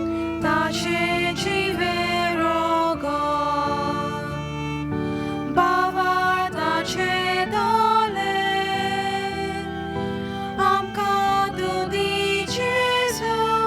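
Church hymn sung to sustained keyboard chords, a slow melody moving over held accompaniment.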